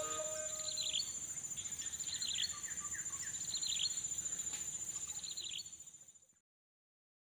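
Wild birds chirping in short falling phrases every second or so over a steady high insect trill; the sound cuts off about six seconds in.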